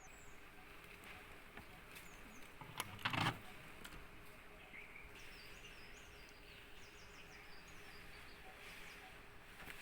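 Faint background ambience with a steady low hum and small birds chirping in short falling notes, mostly in the second half. A brief sharp noise about three seconds in is the loudest sound.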